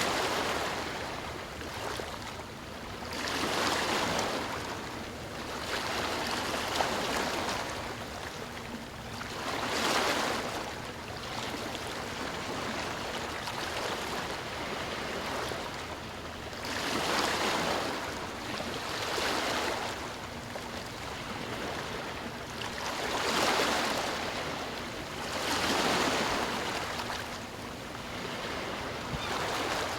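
Sea waves breaking and washing on the shore in repeated swells. Each surge of surf rises and falls over a couple of seconds, with a steady wash of water between them.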